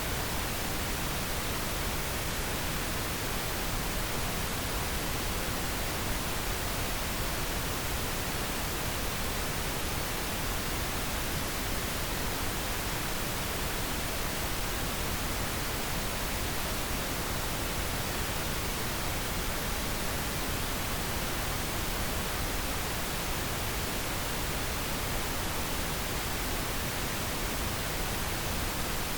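Steady pink noise: an even, unchanging hiss spread across all pitches, generated as a sleep aid.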